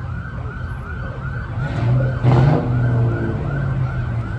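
Low rumble of a Ford Mustang GT's 4.6-litre V8 going by, swelling about halfway through. Behind it a siren runs in a fast rising-and-falling yelp, about three cycles a second.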